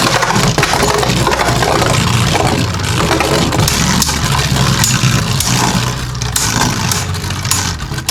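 Two Beyblade Burst Turbo spinning tops, Kerbeus K4 and Blizzard-X Gaianon, whirring and scraping around a plastic Rail Rush stadium. There are clicking hits when they clash, more of them in the last couple of seconds as Gaianon loses its stamina.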